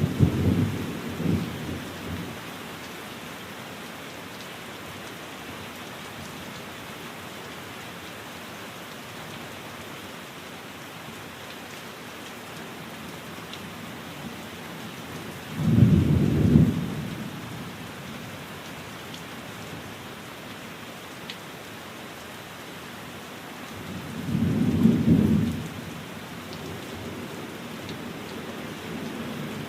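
Steady rain falling, with rolls of thunder rumbling low: one fading out in the first two seconds, a loud one a little past halfway, and another near the end.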